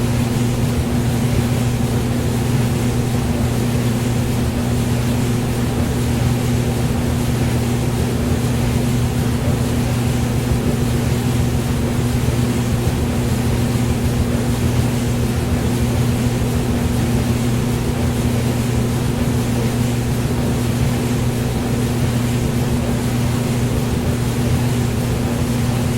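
Hair dryer running steadily: a constant motor hum under an even rush of blown air, with no change in speed.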